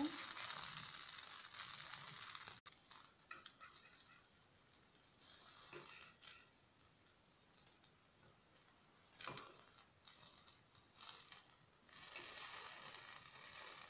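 Eggplant rounds sizzling softly in hot oil in a frying pan, with metal tongs clicking and tapping against the pan as the slices are turned over. The sizzle drops away abruptly a few seconds in and comes back near the end.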